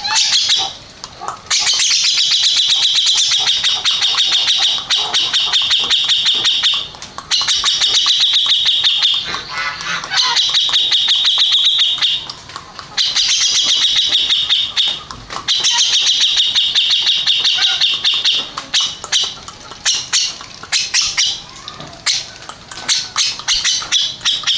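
Cucak jenggot (brown-cheeked bulbul) singing loud, fast rattling trills in several long phrases with short breaks between them, turning into shorter, choppier calls near the end.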